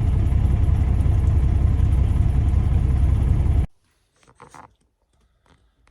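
Semi truck's engine and road noise heard from inside the cab, a steady low rumble that cuts off suddenly a little over halfway through. A few faint clicks follow in the quiet.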